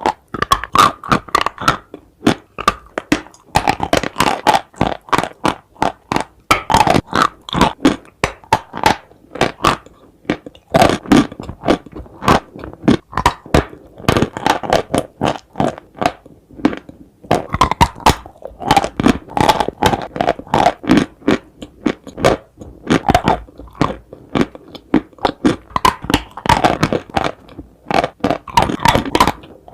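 A person biting and chewing dry chalk-like clay, loud, rapid, crisp crunches in runs of a few seconds with short pauses between bites.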